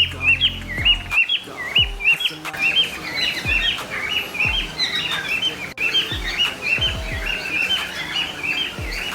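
A crowd of caged birds chirping non-stop, many short rising calls overlapping. Under them, the deep bass notes of a hip-hop backing track slide downward about once a second.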